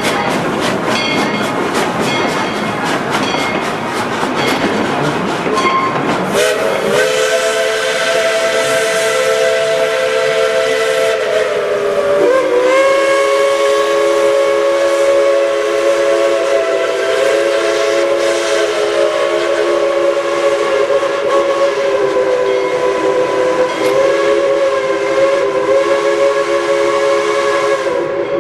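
Steam locomotive whistle sounding one long chord of several tones, starting about six seconds in and held, with the pitch dipping slightly about halfway and wavering now and then. Before it, the train's running noise with a rapid, even clatter.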